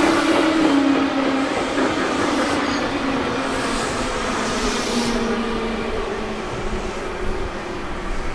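Orange-striped JR Central electric multiple-unit train running away along the track. Its motor whine steps down in pitch and fades over wheel and rail rumble.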